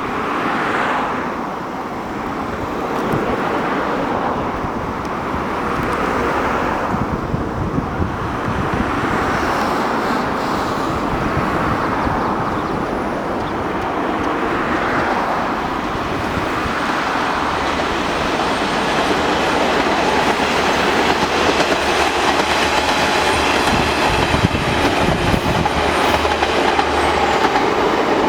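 Diesel railcar of a local train running along the line: continuous rumble and rail noise from the wheels, with a steadier engine hum coming in over the second half.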